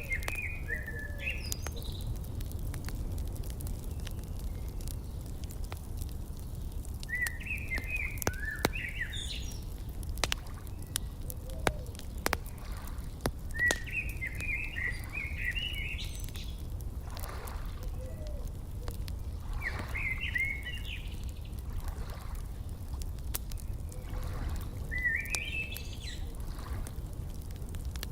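Outdoor fire crackling with scattered sharp pops over a steady low rumble, while a songbird sings short warbling phrases about every six seconds.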